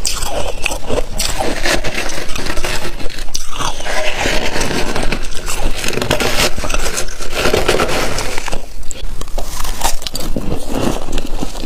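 Freezer frost being scraped and crunched close to the microphone: a loud, dense crackling crunch that goes on almost without a break.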